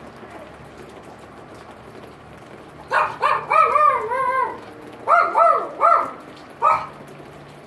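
Steady rain. About three seconds in, a dog starts barking in quick series of short, pitched yaps: about five, then three, then a single one.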